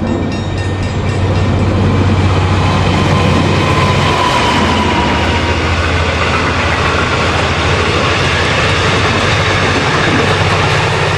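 V/Line push-pull passenger train, with a diesel locomotive at each end, passing close by at speed: a steady low diesel drone over the rolling rumble of the carriage wheels on the rails.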